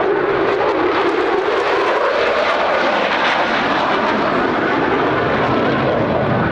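Loud, steady jet engine noise from an F-16 Fighting Falcon in flight.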